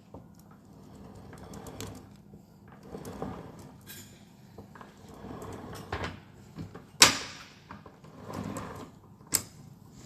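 Scattered knocks and clinks of metal parts and tools being handled during gearbox reassembly, the sharpest knock a little past seven seconds in.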